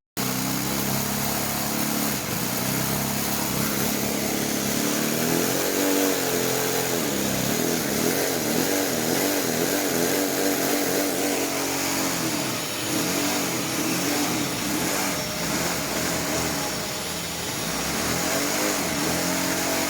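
A 3D-printed inline-four vacuum engine running on a household vacuum cleaner's suction: the vacuum cleaner's steady noise with the engine's pitch wavering up and down as its speed varies.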